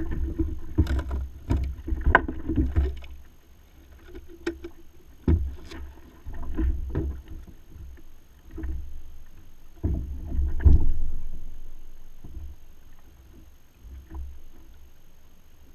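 Knocks and splashes on a fishing kayak, irregular and loudest in the first few seconds and again about ten seconds in, over a low rumble of wind on the microphone.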